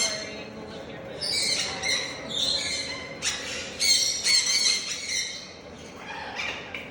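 Parrots calling: a run of harsh, screechy squawks, several in quick succession, with a brief lull before a shorter call near the end.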